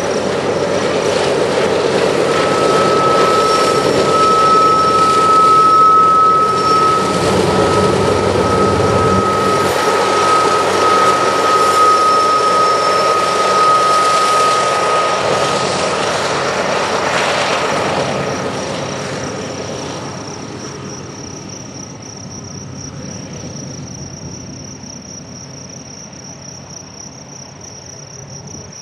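Union Pacific diesel locomotive and freight cars rolling past, the engine running with wheels rumbling on the rails and a steady high squeal through much of the pass. The sound fades as the train moves away, leaving insects chirping near the end.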